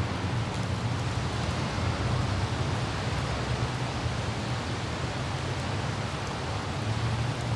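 Light rain falling steadily, with faint scattered drop ticks over a low, steady rumble of a car driving through the city.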